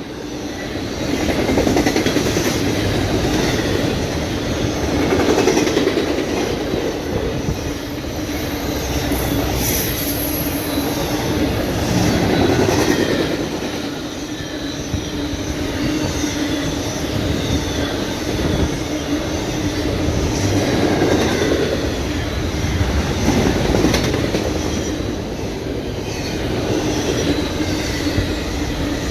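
A train rolling past, its wheels clacking over the rail joints, with a steady squeal from the wheels on the rail.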